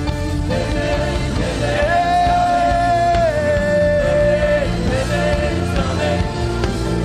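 Live worship music: a band playing under a singing voice that holds long, sustained notes.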